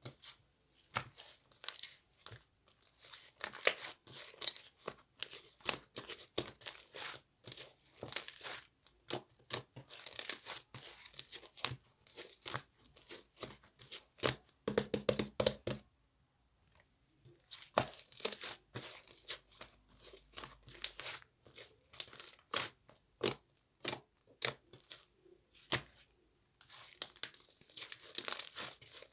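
Fluffy cloud slime being pulled and squeezed by hand, crackling and tearing as it stretches apart, with a pause of about a second around halfway through.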